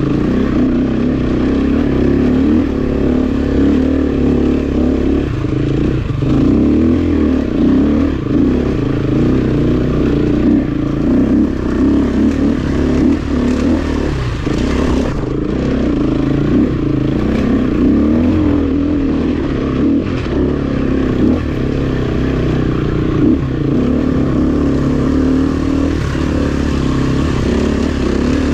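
Honda CRF250F trail bike's single-cylinder four-stroke engine running under load, the revs rising and falling with the throttle. A few brief knocks about halfway through.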